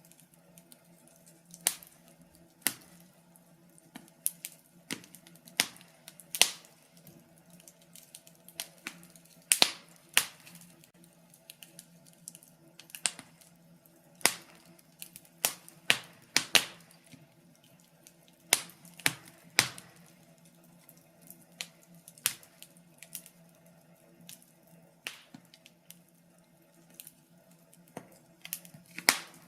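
Wood fire in a fireplace crackling, with irregular sharp pops and snaps about one to three a second, some much louder than others, over a faint steady low hum.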